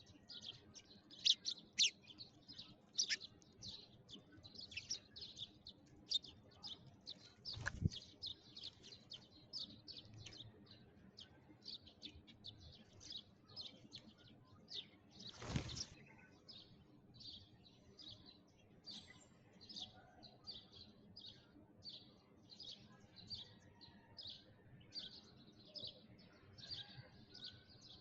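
Sparrows chirping continuously, short sharp chirps at about two or three a second. Two brief noises cut across them, a short one about a quarter of the way in and a longer one near the middle.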